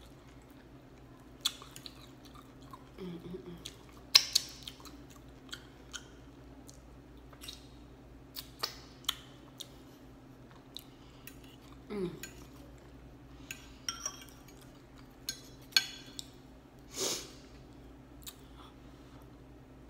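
Close-miked eating sounds of soft chicken pot pie being chewed, with many sharp clicks and taps from a fork on a plate. The loudest click comes about four seconds in, and there are a few short hums of the mouth.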